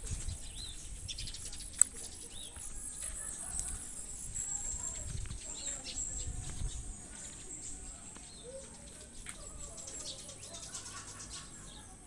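Small birds chirping in short, scattered calls over a steady high-pitched background buzz and a low rumble. A single sharp click about two seconds in.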